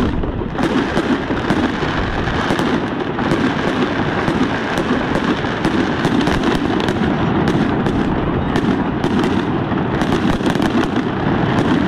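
A fireworks barrage: a dense, unbroken run of bursts and crackling, many sharp pops over a steady rumble.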